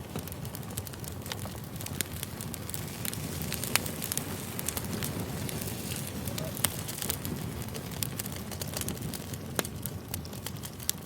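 Campfire crackling: a steady rush of flames with frequent sharp pops and snaps of burning wood.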